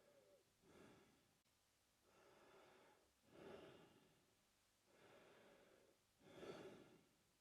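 A man breathing slowly and faintly through his mouth. Softer and louder breaths alternate in an even rhythm, about three full breaths.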